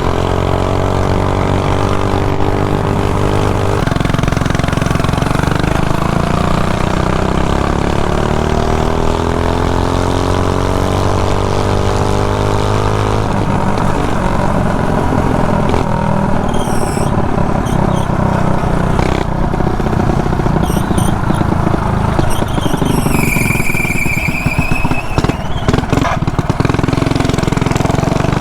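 Mini bike's small engine running under way: it holds steady, then climbs in pitch as the bike speeds up, and later runs less evenly, with wind rushing over the helmet-mounted microphone. A high, slightly falling squeal sounds briefly about halfway through and again for about two seconds near three-quarters of the way.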